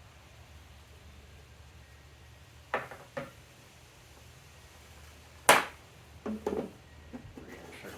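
Light metallic clicks, then a sharp clink about five and a half seconds in followed by a few smaller knocks: a small steel nut dropped down into place onto its hole.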